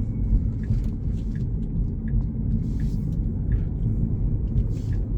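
Steady low road and tyre rumble inside a Tesla's cabin while it drives, with a faint light tick repeating about every three-quarters of a second.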